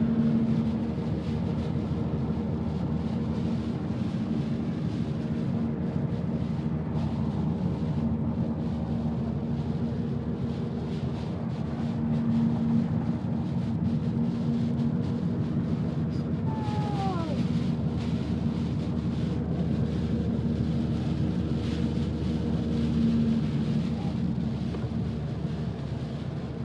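Car driving on a snowy road with snow chains on its tyres: a steady running drone with a constant hum.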